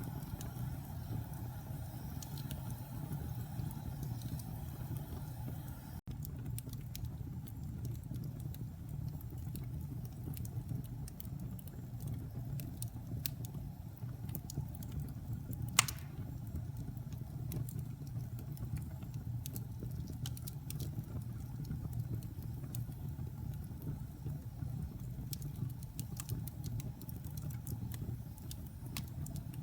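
Fire burning in a fireplace: a steady low rumble with scattered small crackles and one sharp, loud pop about halfway through.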